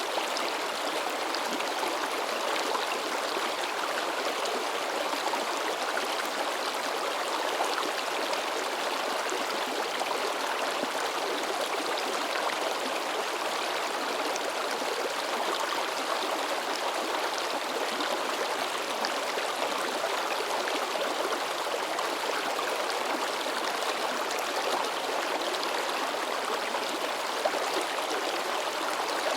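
River water rushing and splashing over rocks in a steady, even babble, with no change through the stretch.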